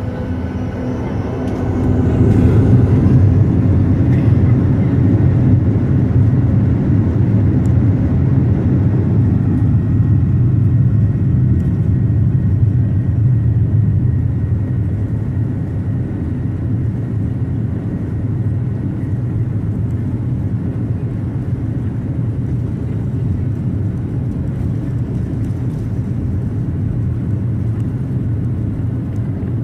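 Boeing 737-800's CFM56-7B jet engines spooling up about two seconds in, with a short rising whine, then a steady heavy low rumble at high thrust that eases a little past the halfway point.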